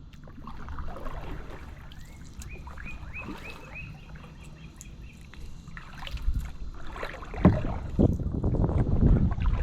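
Kayak paddling: paddle strokes in the water with wind on the microphone, louder from about seven seconds in. Between about two and four seconds in, a bird calls a quick run of about eight short whistled notes.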